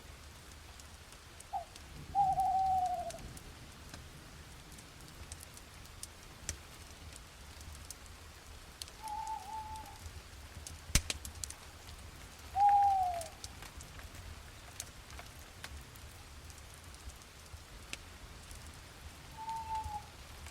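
An owl hooting: five short calls spaced several seconds apart, most of them falling slightly in pitch, the loudest about two and twelve seconds in. Under them light rain hisses with scattered drips, and there is one sharp tick about eleven seconds in.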